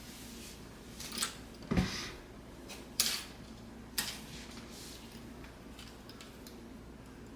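A few light clicks and taps of small objects being handled, with one duller knock about two seconds in.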